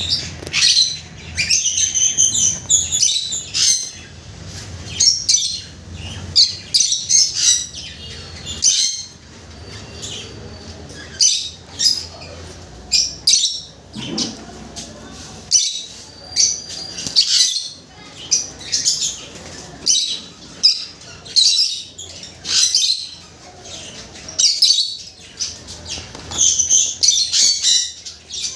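White finches calling: many short, high chirps and chattering calls in irregular quick bursts, one after another throughout.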